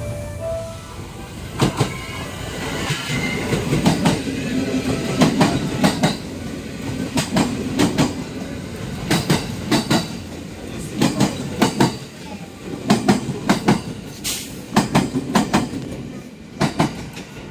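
JR West 287 series limited express electric train running past close by. Its wheels clack over the rail joints in regular double clicks as each bogie's pair of axles crosses, over a steady low rumble.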